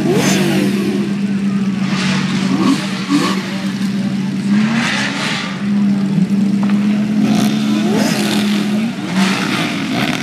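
Many car engines revved at once, with repeated rising rev blips over a steady engine drone that holds through the whole stretch.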